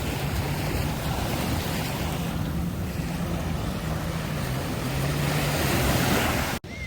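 Waves washing on a beach with wind rumbling on the microphone, a steady noisy wash; it cuts off abruptly near the end.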